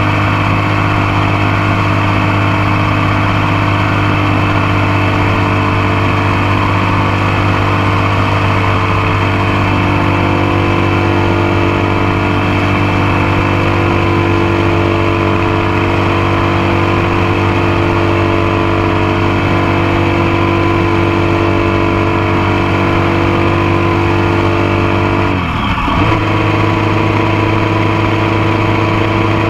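Motorcycle engine running steadily under way, heard close up from a mount on the passenger foot peg. Near the end its pitch drops sharply for a moment and then picks back up.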